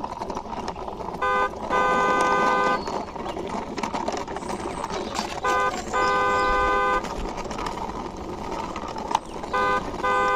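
A car horn beeping three times, each time a short beep then a longer one, about four seconds apart, over a steady noise.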